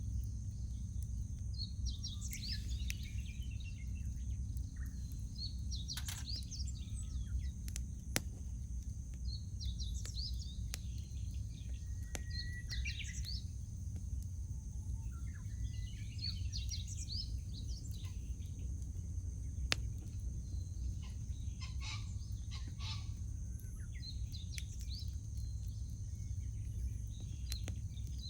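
Wild birds singing short chirping phrases every few seconds over a wood campfire, with occasional sharp pops from the burning wood and a steady low rumble underneath.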